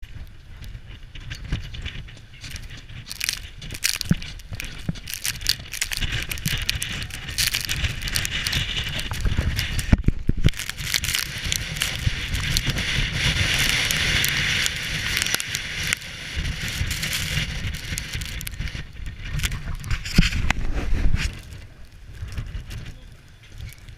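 Mountain bike on a downhill run: tyres hissing over dirt and stones, with constant rattling and clicking of the bike and wind buffeting the microphone. The noise swells about halfway through and drops sharply near the end.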